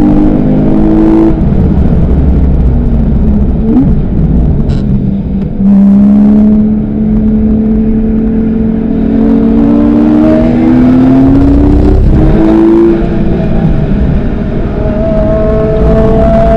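Porsche 911 Carrera S (991) flat-six with PDK gearbox, heard loud from inside the cabin while lapping a race track: the engine note climbs slowly in pitch under power. The note breaks off and changes about a second in and again about thirteen seconds in.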